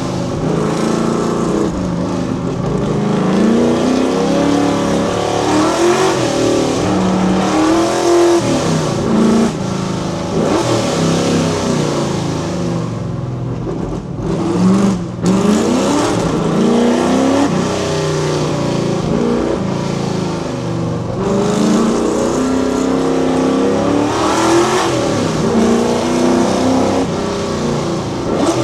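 Fox Body Mustang's V8 engine pulling hard, its note climbing in pitch and dropping back again and again as it accelerates, shifts and lifts, with raw open exhaust.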